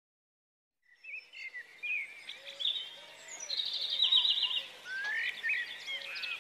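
Birds chirping and singing, several calls overlapping, starting about a second in, with a fast trill a little past the middle.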